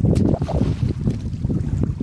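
Wind buffeting the microphone: a loud, uneven low rumble that gusts up and down.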